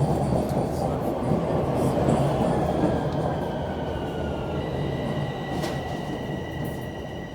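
Toronto Rocket subway train pulling into the station, its wheel rumble slowly fading as it slows. From about three seconds in, a high whine of several steady tones comes in, one briefly sliding down in pitch. A single sharp click comes near the end.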